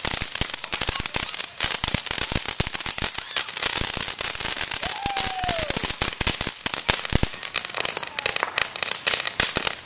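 Consumer fireworks crackling: a dense, rapid run of sharp pops and snaps.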